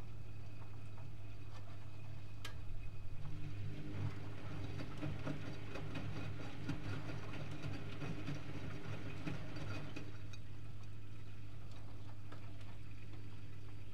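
Privileg Multispar 5110 washing machine in the wash phase of a boil-wash programme. The drum turns from about three seconds in to about ten seconds in, with laundry tumbling inside, then stops. A steady low hum runs throughout.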